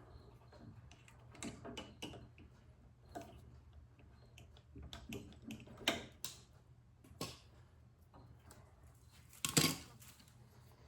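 Scattered small clicks and knocks of hand tools and metal parts being handled while working a fuel line loose from a snowblower carburetor, the sharpest knock about a second before the end, over a low steady hum.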